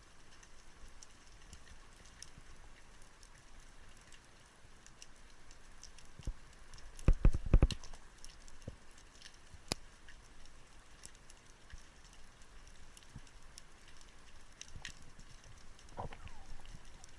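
Faint, steady crackle of scattered small clicks, likely heard underwater on a spearfishing dive, with a short cluster of loud low thumps about seven seconds in and a softer low swell near the end.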